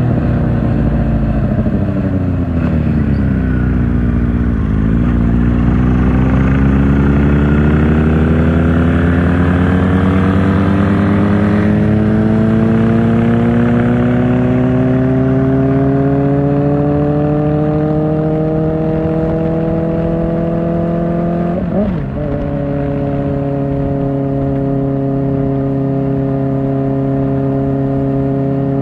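Kawasaki Ninja ZX-4R's inline-four engine through an Akrapovic exhaust while riding: the engine note falls as the bike slows, then climbs steadily for a long pull under acceleration. About three quarters of the way through there is a quick gear change, and the engine then holds a steady note while cruising.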